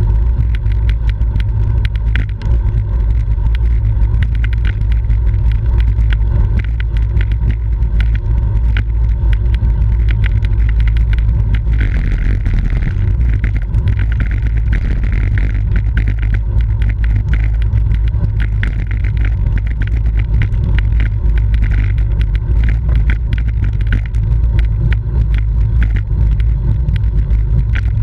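Wind buffeting the microphone of a camera on a racing bicycle at speed, a loud steady rumble, with dense rapid clicking and rattling from the ride over the road.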